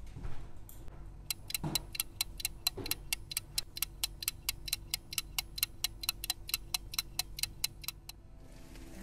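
Rapid, even mechanical clicking, about four clicks a second for several seconds, then stopping, with two soft knocks near the start.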